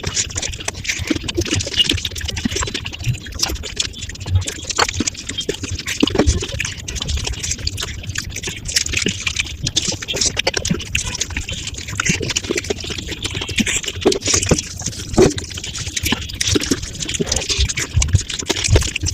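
Mukbang eating sounds sped up about five times: a dense, continuous crackle of wet chewing, smacking and slurping clicks.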